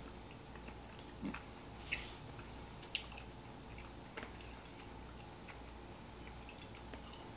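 Faint mouth sounds of someone chewing a soft raspberry Maoam taffy cube: a handful of soft clicks and smacks, spaced out, over a quiet room.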